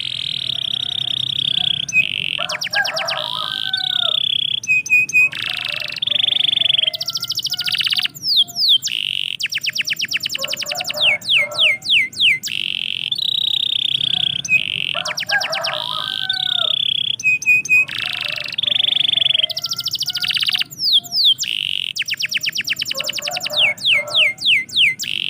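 Domestic canary singing a long, continuous song of held whistled notes and rapid rolling trills. The same run of phrases comes round again about every twelve seconds.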